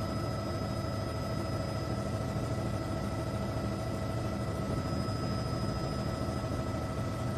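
A steady mechanical drone: a low rumble with several constant high whining tones over it, unchanging throughout.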